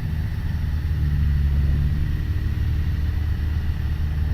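Piper Warrior's four-cylinder Lycoming piston engine and propeller droning steadily inside the cockpit on final approach, a low even hum with a slight change in tone between one and two seconds in.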